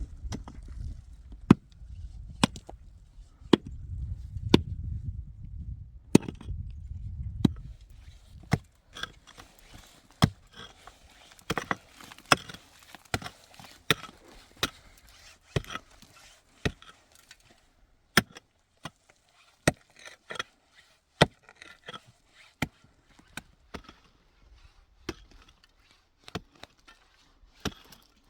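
Repeated sharp chopping blows, roughly one a second, with a low rumble under the first several seconds.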